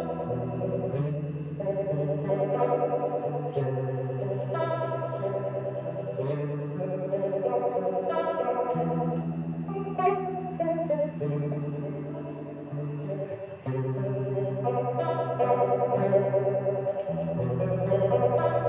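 Electric guitar played through effects pedals into an amplifier. It plays held chords with a steady wavering modulation on the upper notes and a light grit, over bass notes that change every second or two.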